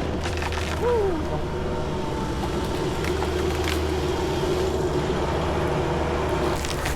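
An engine idling steadily with a low, even hum, and a brief rising-and-falling tone about a second in.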